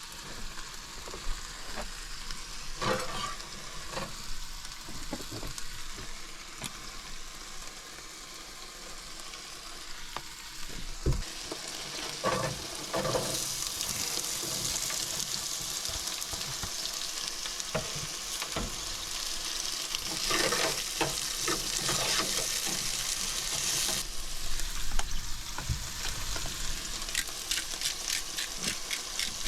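Food sizzling in a pan on a camp stove, with the occasional scrape and clink of a utensil stirring it. The sizzle grows louder for about ten seconds in the middle.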